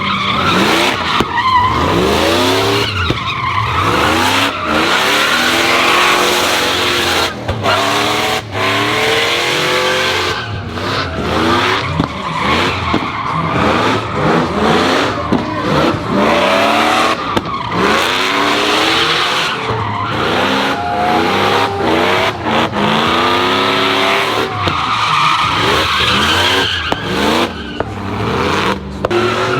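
Truck engines revving up and down again and again over the steady screech of spinning tyres as the trucks do burnouts.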